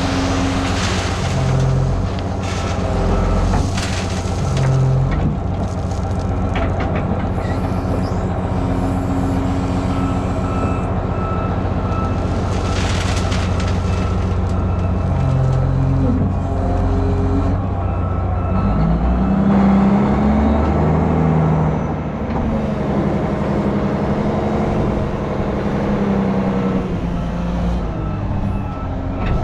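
Heavy diesel engine running steadily, with a few short rushes of noise over it. About two-thirds of the way through, the engine's pitch shifts and glides as it changes speed.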